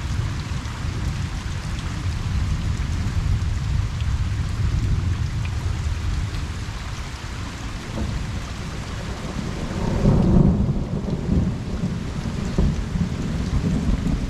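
Steady rain falling on a pond, with thunder rumbling low underneath. The thunder swells to its loudest about ten seconds in, then fades back.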